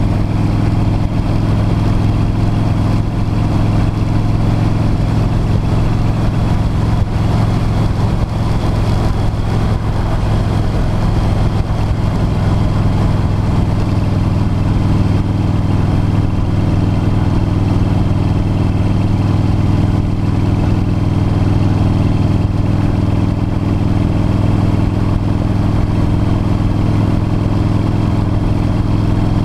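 V-twin cruiser motorcycle engine running at a steady cruise, with a steady hum and road and wind noise.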